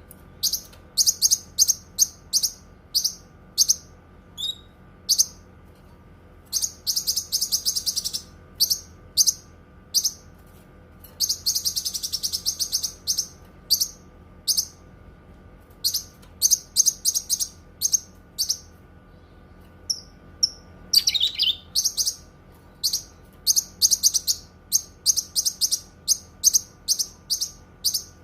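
Cucak kinoi songbird singing: rapid series of short, sharp, high chirps, run together into fast trills twice, with one downward-sliding call about two-thirds of the way through. A faint steady hum lies underneath.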